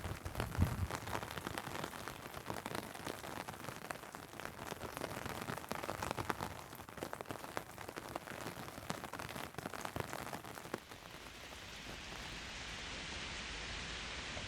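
Raindrops hitting an umbrella in many irregular clicks over the hiss of rain. About eleven seconds in, the clicks give way to an even, steady hiss of rain.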